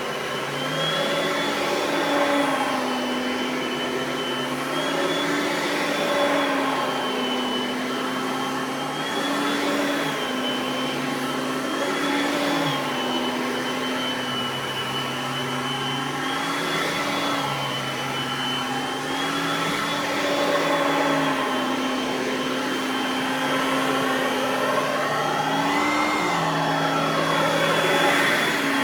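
Oreck XL Platinum upright vacuum running on carpet, a steady motor whine whose pitch rises and dips slightly every few seconds as it is pushed back and forth. Near the end there is a brief sweep up and back down in pitch.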